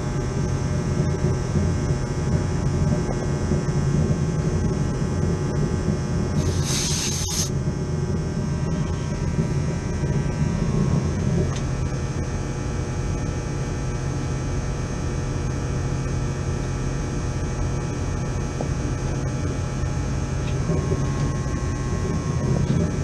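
Air-conditioning condensing unit running: a steady hum from the compressor and condenser fan, with a short hiss about seven seconds in.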